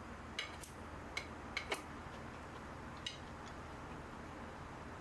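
Light clinks of eating utensils against a dish, about five in the first two seconds and one more about three seconds in.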